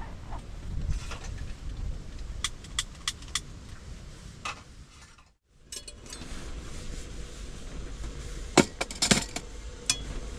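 Sharp metallic clicks and clinks, four in quick succession early on, more in a cluster near the end, over a low steady rumble, with a brief break to near silence about halfway.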